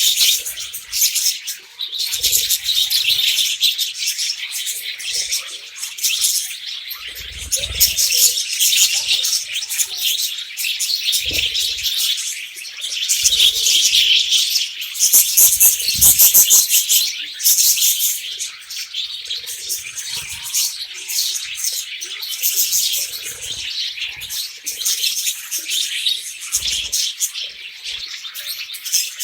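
Budgerigars chattering and warbling without a break, a dense run of rapid high chirps, with a few soft low thumps here and there.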